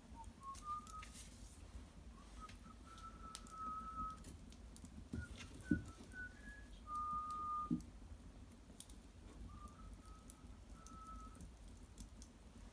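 Wood fire of old cedar in a hearth, with thin whistling tones from gas or steam jetting out of the burning wood, each lasting up to about a second and wavering slightly in pitch, among sharp crackles and a few soft low thumps.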